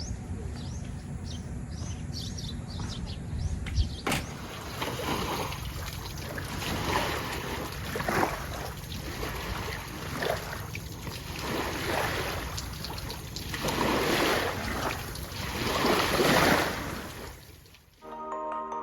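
Water splashing and sloshing in repeated surges every one to two seconds, growing louder toward the end. The first few seconds instead hold high bird chirps over a low rumble, which change abruptly to the water sound.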